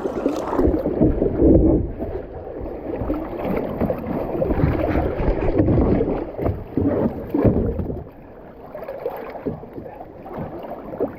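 River water rushing and splashing around a kayak running a small rapid, uneven and loudest in the first few seconds, easing off about eight seconds in.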